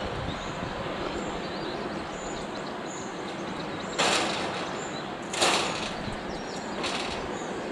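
Outdoor woodland ambience: a steady background rush with faint, scattered bird chirps, broken by three short rustles, the second the loudest, about a second and a half apart.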